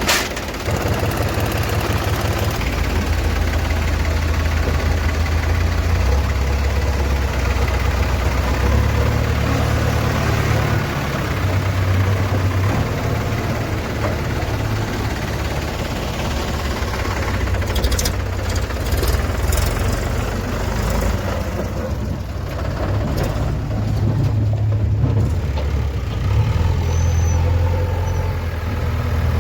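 Heavy diesel engine running continuously, its low drone shifting in speed up and down several times. A sharp click comes right at the start.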